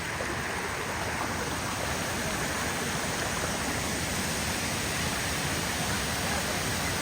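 Rushing water, a steady even rush with no breaks.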